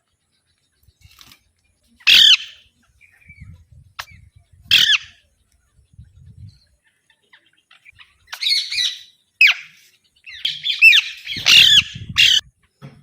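Alexandrine parakeet giving loud, harsh squawks: two single calls a few seconds apart, then a quick run of squawks near the end.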